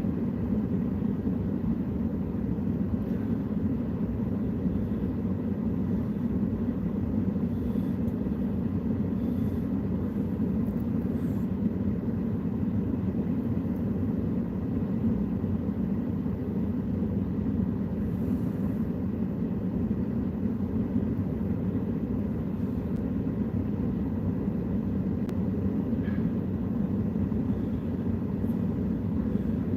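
Steady low rumble of a running vehicle, unchanging throughout, with no distinct knocks or events.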